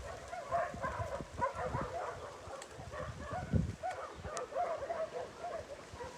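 Many dogs whining and yipping at once in short cries that rise and fall in pitch, with low knocks and thumps underneath.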